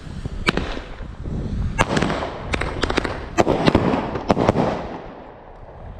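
Consumer fireworks going off: a run of about a dozen sharp bangs and cracks at irregular spacing, with crackling between them, dying away near the end.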